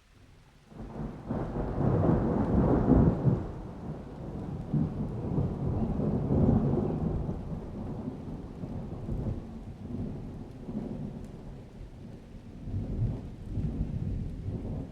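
A long, rolling thunder rumble that breaks in about a second in, is loudest a couple of seconds later, then rolls on in waves of rumbling without dying out, with rain.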